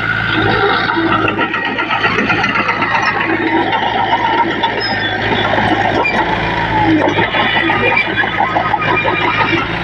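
Diesel engine of heavy earthmoving machinery running steadily, with continuous metallic clatter and squeaks over it.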